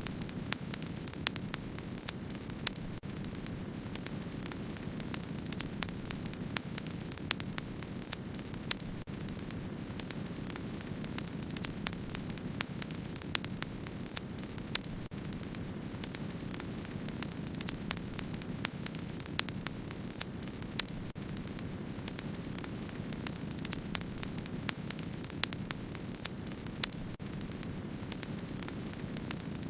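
Wood fire crackling: many small sharp crackles and pops, a few each second and irregularly spaced, over a steady low rushing noise of the burning fire.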